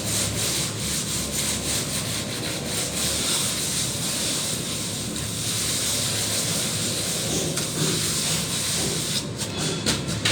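Plastering tool, a trowel or float, rubbing and scraping across a plastered wall in quick repeated strokes.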